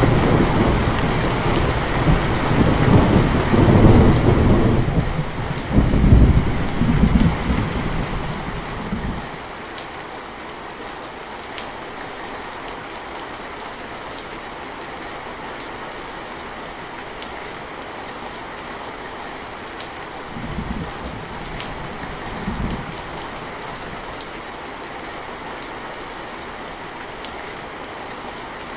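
Heavy rain falling steadily as a constant hiss. Deep rumbling, like thunder, fills the first several seconds and fades out, and two short low rumbles come about two-thirds of the way through.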